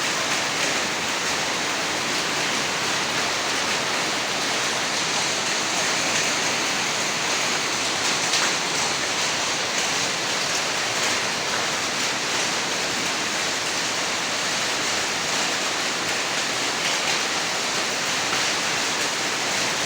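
Heavy downpour in a hailstorm with strong wind: a dense, steady hiss of rain and hail.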